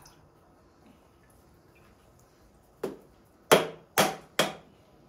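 Four sharp chopping blows on a coconut shell: a single strike, then three more in quick succession about half a second apart.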